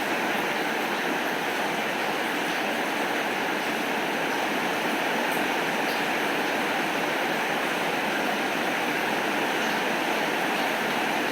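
Steady rainfall, an even unbroken hiss with a few faint ticks of drops.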